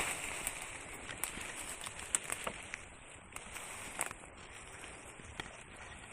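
Rustling outdoors, with scattered light snaps and clicks, the sharpest about two and four seconds in.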